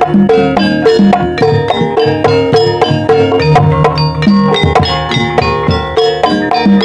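Javanese gamelan playing a Banyumasan ebeg opening gending: a fast, even stream of struck metallophone notes over drum strokes.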